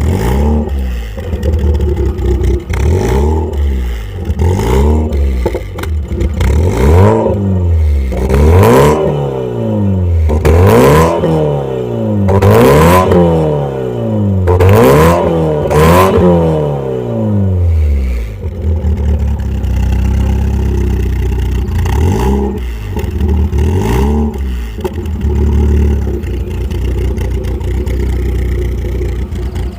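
VW Golf MK1's 1.4i petrol engine revved in repeated quick blips, the revs climbing and dropping back each second or two. After about eighteen seconds it settles to a steady idle with a few light blips of the throttle.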